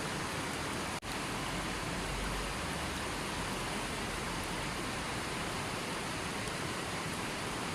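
Steady, even hiss of rushing water, with a momentary drop-out about a second in.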